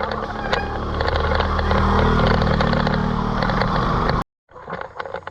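A motor vehicle's engine running close by, a steady low hum with rattles and clicks over it, cut off suddenly about four seconds in.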